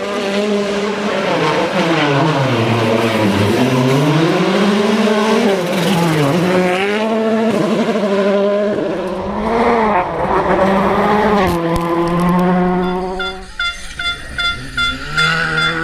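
A WRC rally car's 1.6-litre turbocharged four-cylinder engine revs hard up and down through gear changes at racing speed. Near the end it drops to a steadier note, and a series of short, evenly spaced high beeps sounds.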